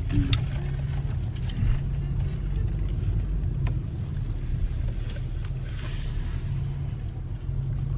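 Car's engine and road noise heard from inside the cabin while it drives: a steady low rumble with a few light clicks.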